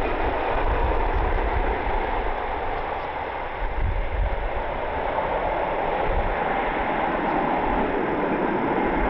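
Steady jet airliner engine noise, with wind gusting on the microphone underneath.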